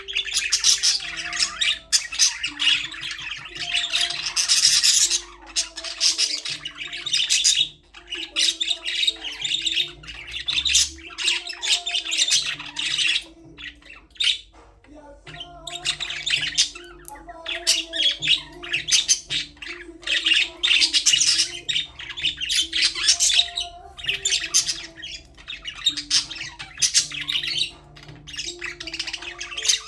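Budgerigars chirping and chattering in bursts a few seconds long with short pauses, over soft background music.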